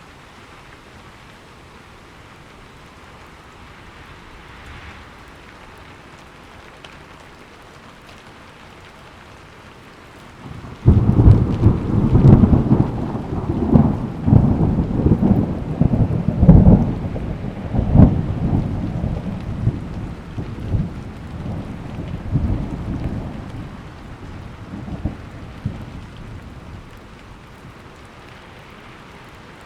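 Steady rain, with a thunderclap breaking suddenly about eleven seconds in and rolling on with several loud cracks for over ten seconds before dying away under the rain.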